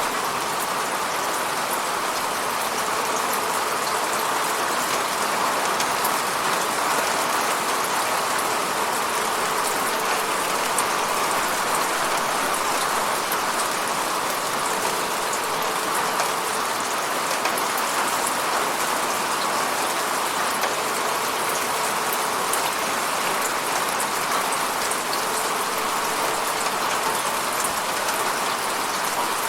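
Steady rain falling and pattering on a window, with the fine ticks of single drops.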